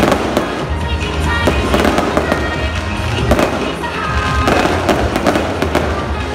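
Fireworks going off in quick succession: many sharp bangs and crackles over loud music with a steady beat.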